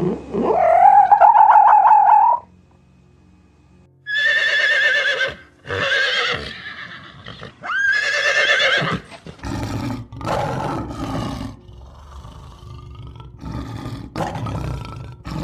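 A series of loud animal calls: several long pitched cries, one rising sharply at its start, followed in the second half by lower, rougher calls.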